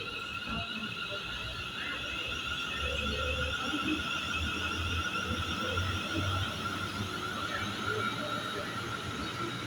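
Electric passenger train pulling out, its traction equipment giving a steady high-pitched whine of several tones over a low rumble.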